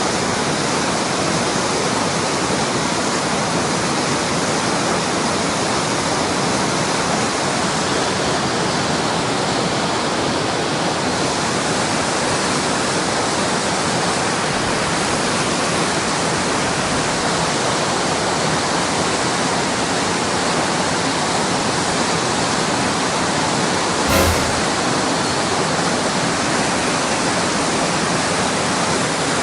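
Mountain stream water rushing loudly and steadily, with one short knock near the end.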